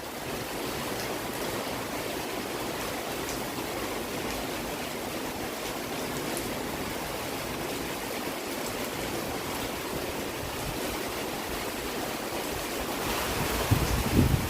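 Steady rain falling, an even hiss. Near the end, gusts of wind buffet the microphone.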